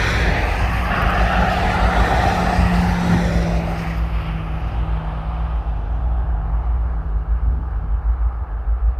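Road vehicle passing on the highway, its tyre noise fading away after about four seconds, with a steady engine hum and a constant low rumble underneath.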